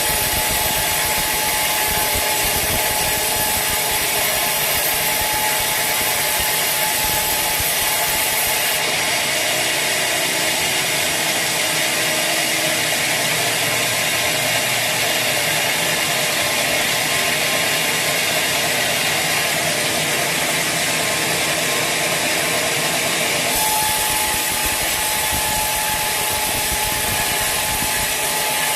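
Sawmill saw cutting through a teak log: a continuous, loud sawing noise with a steady whine. The whine drops out about nine seconds in and returns near the end, when the sound changes abruptly.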